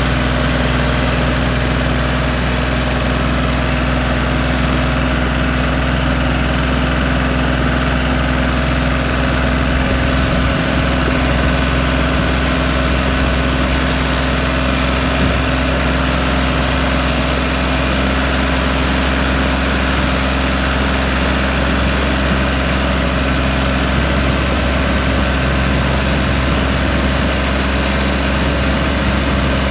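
Tractor engine running steadily at an even speed, a constant low hum.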